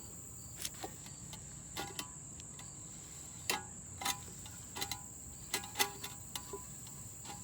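Light metallic taps and clinks from a steel automatic-transmission pan being handled and wiped out, some ringing briefly, about a dozen spread irregularly. Under them runs a steady high-pitched whine.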